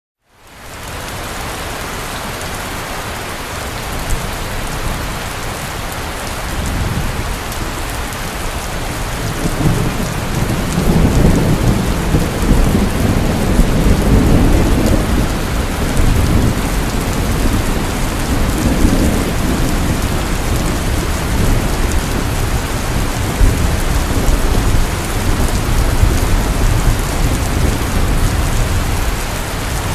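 Heavy rain pouring steadily, fading in at the start. From about ten seconds in, low rolling thunder rumbles beneath the rain and keeps swelling and ebbing.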